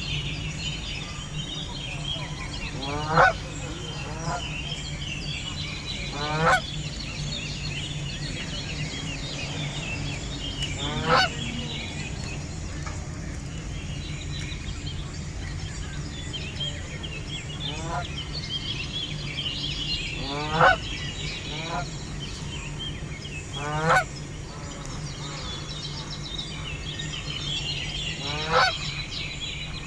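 Canada geese honking: single loud honks every few seconds, each a short call that sweeps upward in pitch, some fainter than others. Faint twittering of small birds runs underneath.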